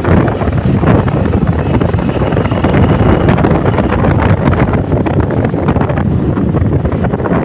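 Heavy wind buffeting on the microphone from moving along a street, with a vehicle's running noise underneath.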